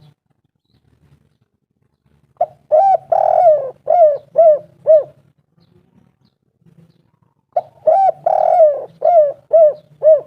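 Spotted dove (tekukur) cooing: two phrases a few seconds apart. Each phrase has a few short coos, one longer drawn-out note, and then three short closing notes.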